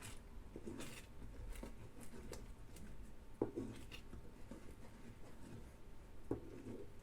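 A spatula scraping and tapping lightly in a non-stick frying pan as the omelette is moved around, with two sharper knocks, one about halfway and one near the end.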